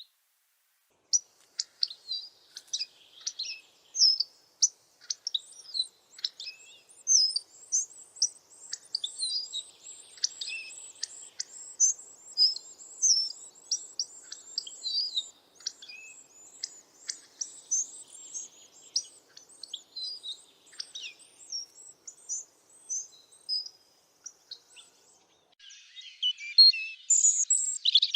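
Bird chirping: a rapid, continuous run of short high chirps and trills, with a brief lull and then a louder burst of calls near the end.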